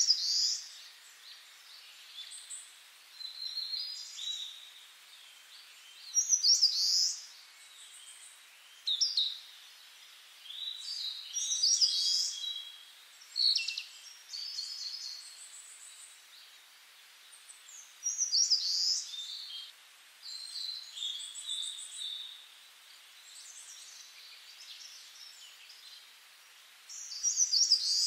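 Small songbirds calling in short, high chirpy phrases every few seconds, over a faint steady background hiss.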